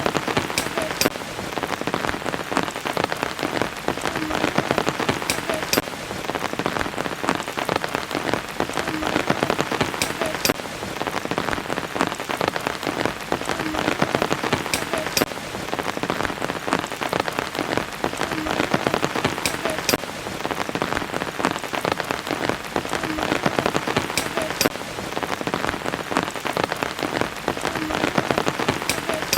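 Steady rain falling, with many sharp individual drop strikes standing out from the even hiss. The same stretch of rain repeats about every five seconds.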